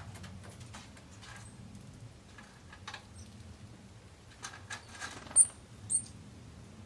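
Scattered light rustling and ticking, then two short, sharp, high-pitched bird call notes about half a second apart near the end.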